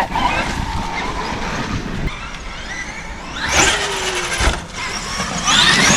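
Traxxas Xmaxx electric RC monster truck driven in two loud bursts, about three and a half and five and a half seconds in, with a whine from its electric motor that falls slightly in pitch during the first burst.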